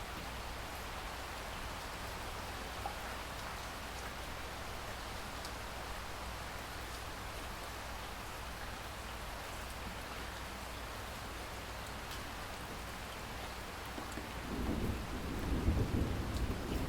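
Steady rain falling, with scattered drop ticks. Near the end a low roll of thunder builds and grows loud.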